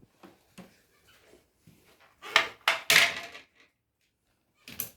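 A few sharp knocks and clatters from the opened wet-grinder handle parts being handled. The loudest group comes in the middle, with one more knock near the end.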